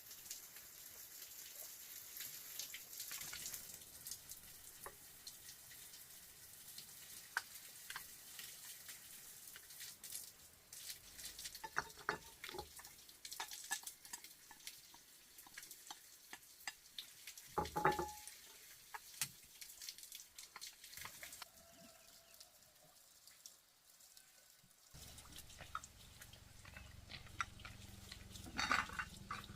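Water dripping and splashing, with scattered small clicks and knocks. A low steady hum comes in near the end.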